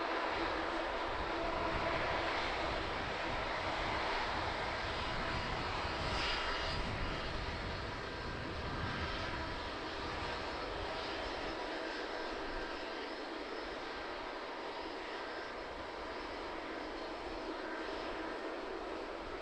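Airliner engine noise, a steady rushing sound with faint high whining tones, slowly fading as the aircraft moves away.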